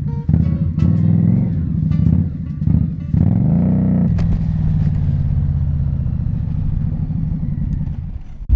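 Indian Scout Bobber's V-twin engine under way: revs climb and fall back twice in the first few seconds, then run steady and ease off near the end. Background music plays along.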